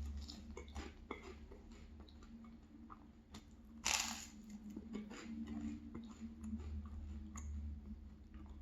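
Close-miked chewing of crunchy toasted maple cinnamon bread, with crisp crackles throughout and one loud crunching bite about four seconds in.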